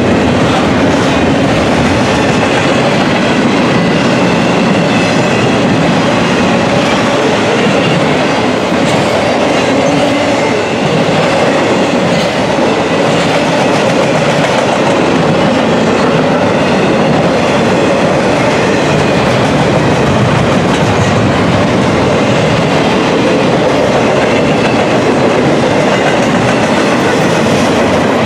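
Freight cars of an intermodal container train rolling steadily past on the track: continuous loud wheel and rail noise with clickety-clack over the rail joints.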